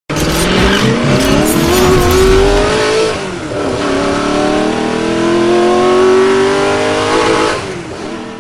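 Vehicle engine accelerating hard, its pitch rising, dropping at a gear change about three seconds in, then rising again before fading out near the end.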